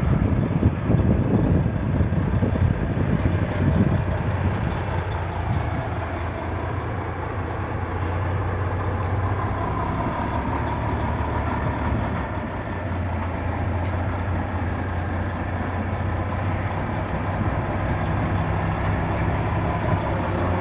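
Scania 'Jacaré' truck's diesel engine running at low revs, a steady low drone, rougher and louder for the first few seconds before settling.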